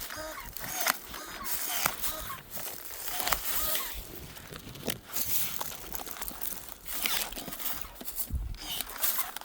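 Battery-powered pruning shears snipping pomegranate branches, with sharp clicks every second or two amid rustling of branches and leaves.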